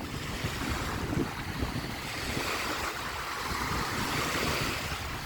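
Waves washing against the shore, swelling for a moment about halfway through, with wind buffeting the microphone in low rumbling gusts.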